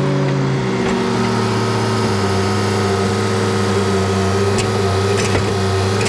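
Skid loader's diesel engine running under throttle, its pitch dropping back about a second in and then holding steady.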